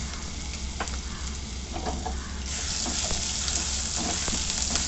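Ginger-garlic-green-chilli paste sizzling in hot oil in a pan as it is stirred, with light spatula knocks against the pan. The sizzle gets louder about halfway through.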